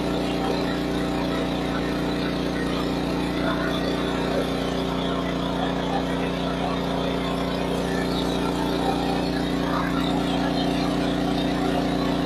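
An engine running steadily, an even hum that holds one pitch.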